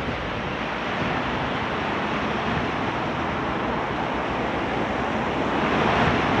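Steady rushing noise of a wet city street, rain and traffic together, swelling slightly near the end.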